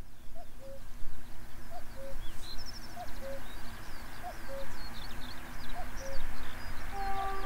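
A bird repeats a low two-note call, a short rising note then a lower held one, about once every second and a quarter, over scattered high chirps of small songbirds and a low steady rumble. A short steady horn-like note sounds near the end.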